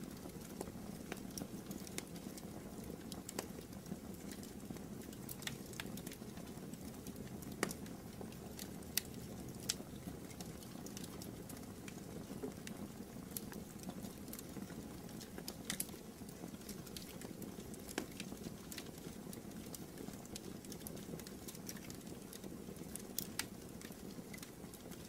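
Fireplace fire burning: irregular sharp pops and crackles, a few every second or two, over a low steady background noise.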